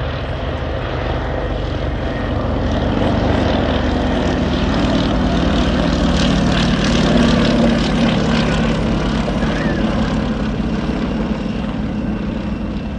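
Propeller-driven aircraft's piston engine running steadily as it passes in a display, growing louder to a peak about halfway through and then fading slightly.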